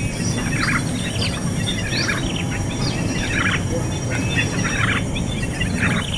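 Small birds chirping: short, quick calls that slide downward in pitch, repeated every half second or so, over a steady low rumble.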